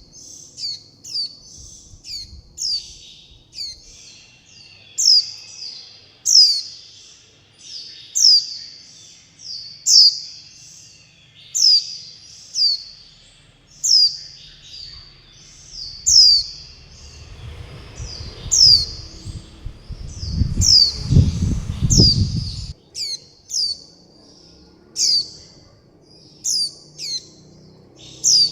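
Juvenile white-eyes begging-calling: a continuous string of short, high chirps that slide downward in pitch, about one or two a second. A low rumble sits under the calls for several seconds starting a little past the middle.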